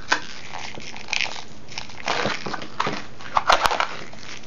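Latex modelling balloon squeaking and rubbing under the fingers as it is squeezed and twisted into very small bubbles, in irregular crackly bursts. The loudest burst comes about three and a half seconds in and ends in a sharp click.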